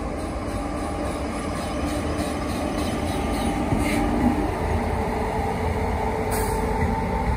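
Indian Railways electric locomotive and its passenger coaches passing: a steady rumble of wheels on rail with a low hum, and a run of faint, regular wheel clicks in the first half.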